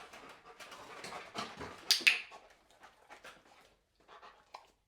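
A Rottweiler panting in quick rhythmic breaths, with one sharp noise about two seconds in, then a few faint clicks as the panting stops.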